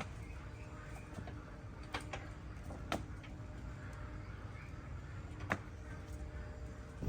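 A few sharp clicks, about a second or more apart, over a low steady background rumble, with faint chirps.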